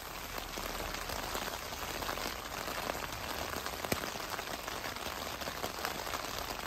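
Rain falling on a Naturehike Cloud-Up 2 tent's flysheet: a steady hiss of rain with many small separate drop taps, and one sharper tap about four seconds in.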